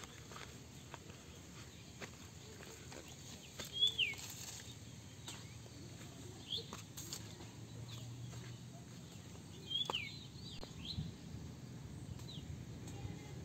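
Outdoor rural ambience with a bird calling in short, sharp downward-sliding chirps several times, loudest about four seconds in and again near ten seconds, over scattered faint clicks.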